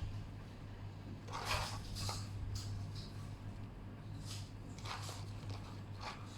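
Soft rustling and scraping sounds, a handful of short bursts, as food is handled and laid onto a tortilla. A steady low electrical hum runs underneath.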